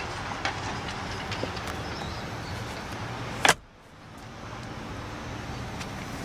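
A car door shutting with one loud thud about three and a half seconds in, after which the surrounding noise drops away sharply, as it does once the cabin is closed. Before that there is a steady background hum with a few small clicks.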